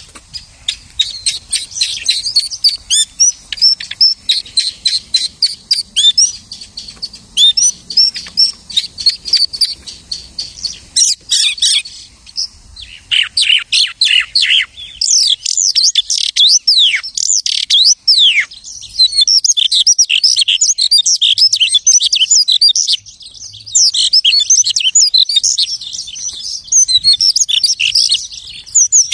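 Lark singing loud, close mimicry of other birds' songs. It opens with fast strings of repeated sharp notes, shifts to sweeping whistles about halfway through, then runs into dense, varied warbling full of rising and falling glides.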